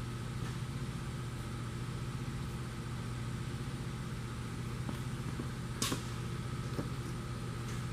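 Steady low mechanical hum of running machinery, with a few faint clicks and a brief hiss about six seconds in.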